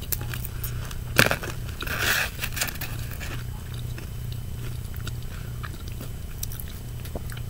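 Close-miked mouth sounds of someone biting and chewing crispy fried chicken: a few loud crunches in the first couple of seconds, then quieter chewing with small crackly ticks, over a steady low hum.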